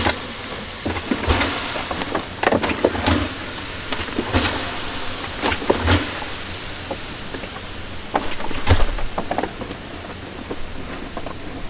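A campfire being put out: two loud hisses, about a second in and about four seconds in, among scattered crackles and knocks.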